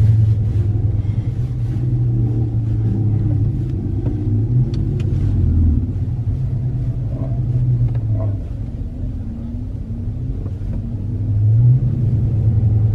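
Car engine running with a deep, steady rumble, rising briefly in pitch and level near the end.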